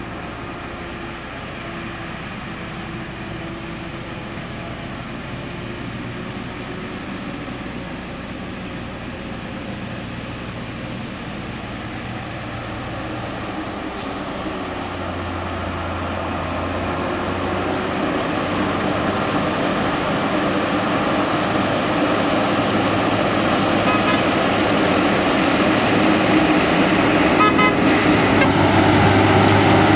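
Truck engine running, growing steadily louder as the truck comes closer. Brief horn toots sound twice near the end.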